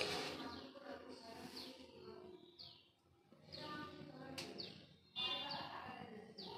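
Small birds chirping: a run of short, high, downward-sweeping chirps repeated every half second or so, over faint voices talking in the background.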